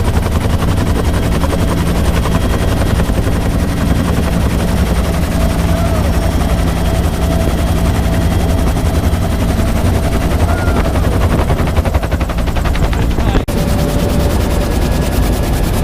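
Bell UH-1 Huey helicopter in flight: the fast, even beat of its two-bladed main rotor over a steady turbine whine. The sound drops out for an instant about 13 seconds in.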